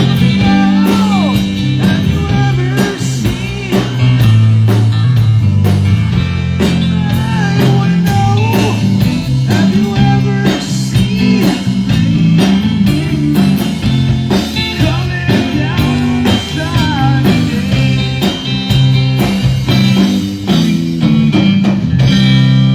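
Live rock band playing a blues-rock passage: an electric guitar lead with bending notes over a steady bass guitar line and drum kit.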